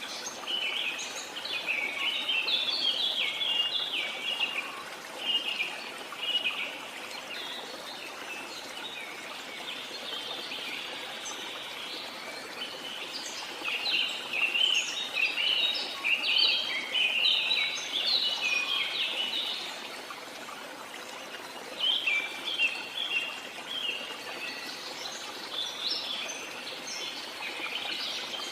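Birds chirping in quick runs of short, high calls that come and go in bouts, over the steady rush of a waterfall.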